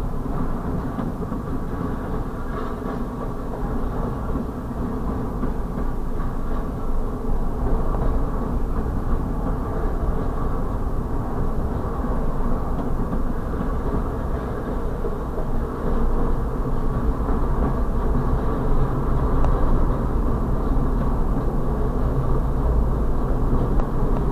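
Freight train of double-stack intermodal well cars rolling steadily past a grade crossing: a continuous rumble of steel wheels on rail, heard from inside a car.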